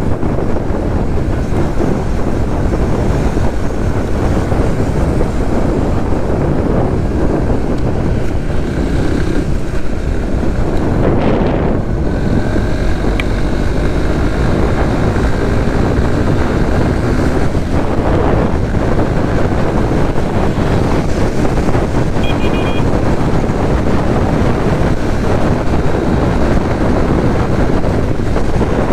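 Wind buffeting the microphone of a moving Suzuki GSX-S150, a single-cylinder 150 cc motorcycle, with its engine and the surrounding traffic running beneath. A short high-pitched beep sounds about two-thirds of the way through.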